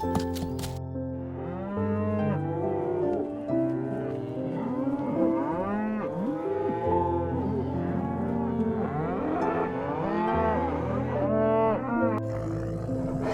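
Cattle mooing, several calls overlapping one after another, each rising and falling in pitch, over soft background music.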